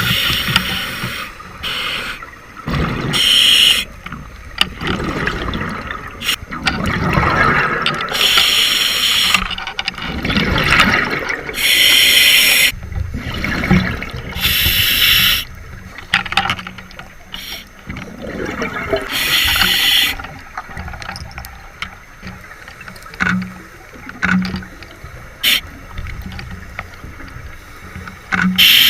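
Scuba diver breathing through a regulator underwater: a bubbly rush of exhaled air about every three to four seconds, with gurgling water in between.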